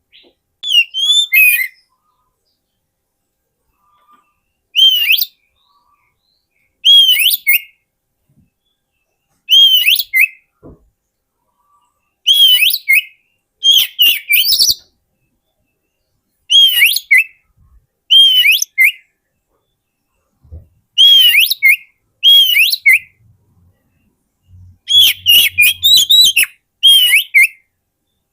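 Oriental magpie-robin (kacer) singing: short whistled phrases, each opening with a rising-then-falling whistle and running into quick higher notes, repeated about every two seconds with short pauses between. It is played as a lure call for wild magpie-robins.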